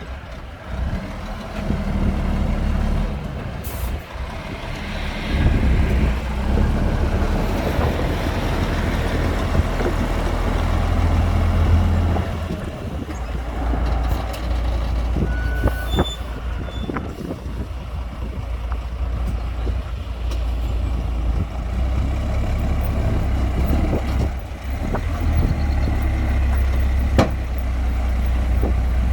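Heavy diesel machinery running at a stone fill, most likely the 25-tonne dump truck: a deep engine drone that swells and eases throughout, with a few short hisses and clicks.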